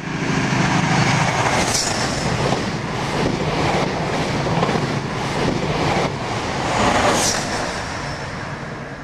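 A train running on rails: a steady rumble and clatter, with two brief high-pitched sweeps about two seconds in and again about seven seconds in. The sound begins to fade near the end.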